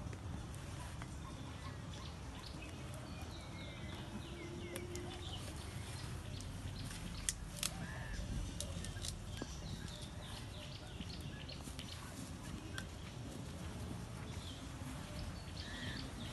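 Birds chirping in the open air over a steady low rumble, with two sharp clicks about seven and a half seconds in.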